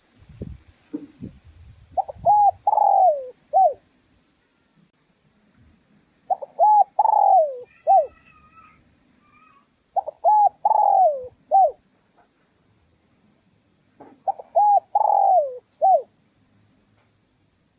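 Spotted dove cooing: four phrases about four seconds apart, each a couple of short coos, then a longer falling coo and a short final note.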